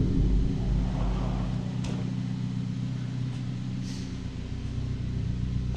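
Car engine idling steadily, a little louder for the first second or so, with a few faint clicks.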